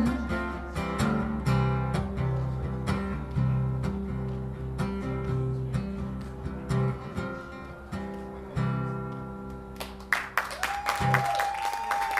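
Acoustic guitar strumming the closing chords of the song, with steady low notes under the chords. About ten seconds in, the playing stops, clapping and crowd noise begin, and a steady high tone is held to the end.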